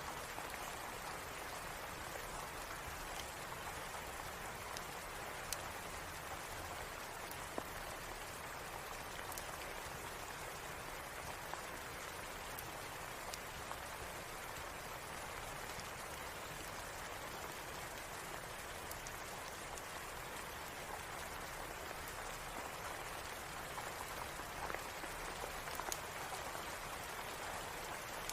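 Steady rain falling, with scattered sharp pops and crackles from a wood fire in a fireplace.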